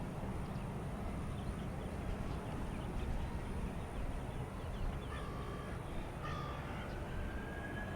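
Wind rumbling on the microphone, with two short crow-like caws about five and six seconds in. Near the end a faint, steadily rising whine sets in, typical of a jet engine.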